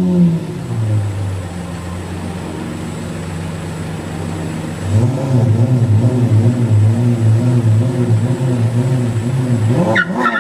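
A vehicle engine running at a steady pitch, getting louder and pulsing about halfway through.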